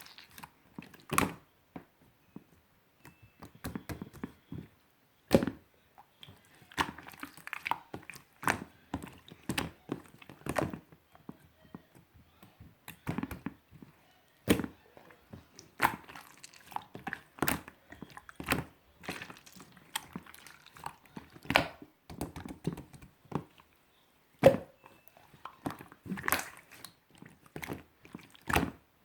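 Slime being squeezed and poked by hand, giving irregular sharp clicks and pops.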